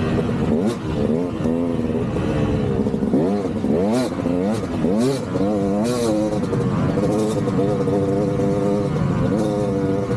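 KTM 200 single-cylinder two-stroke dirt bike engine revving up and falling back over and over as it is ridden over rough woods trail, the pitch rising and dropping every second or so. Several short hissing, scraping noises cut in over the engine.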